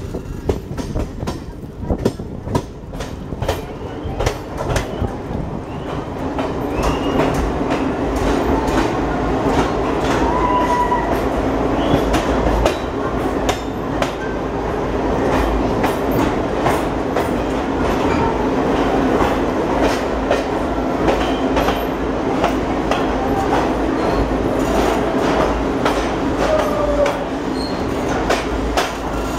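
Passenger express train running, heard from beside an open coach: wheels clicking over rail joints, growing louder and denser about six seconds in as the train runs into a tunnel, with a few short wheel squeals.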